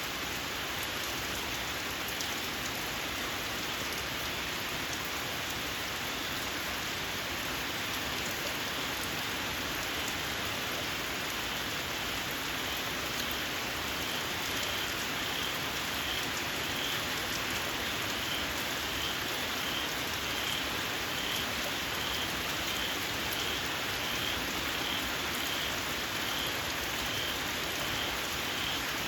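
Steady rain falling on open fields. From about halfway through, a small frog calls over it with a repeated high chirp, about two a second.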